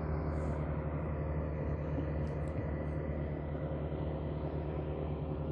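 Steady low drone of a passing motorboat's engine, even in level throughout.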